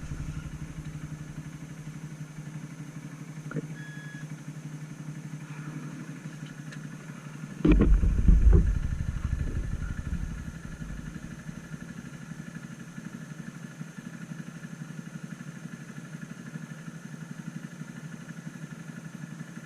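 Honda CG 160 Titan's single-cylinder engine idling steadily. About eight seconds in there is a loud low bump and rumble lasting a second or so.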